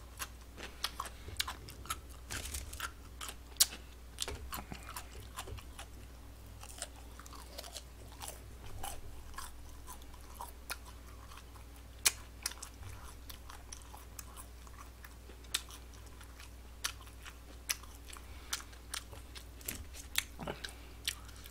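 A person chewing food close to the microphone, with many irregular sharp mouth clicks and wet smacks.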